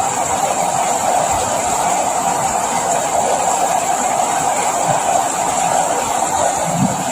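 Steady, even rainfall noise.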